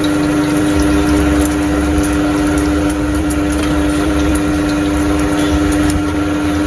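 A steady machine hum: one loud droning tone with fainter overtones, over a constant hiss.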